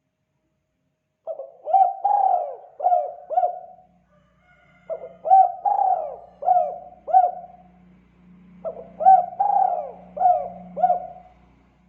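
Spotted dove (tekukur) cooing its 'kuk 2' call: three phrases of about five coos each, a second or so apart, starting about a second in.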